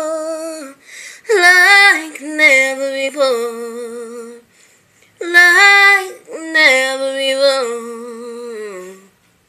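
A female voice singing alone, with no accompaniment, in long held notes. Several drawn-out phrases end the song, the last one sliding down in pitch before the voice stops about nine seconds in.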